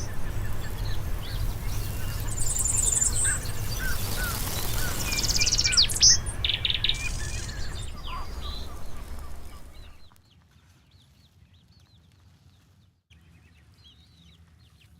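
Birds chirping over a steady low rumble of outdoor noise. About ten seconds in the rumble drops away, leaving only faint, repeated chirps.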